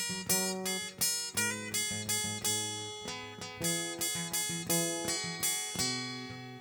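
Acoustic guitar strummed in a steady rhythm, about two to three strokes a second, playing the instrumental bars of a gospel song with no singing.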